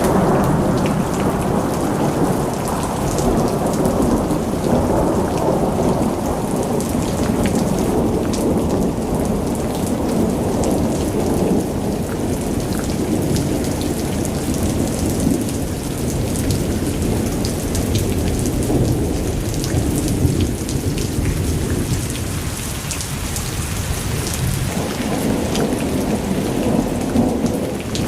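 Heavy rain falling in a storm. A loud, low rolling rumble swells and eases under the patter of drops.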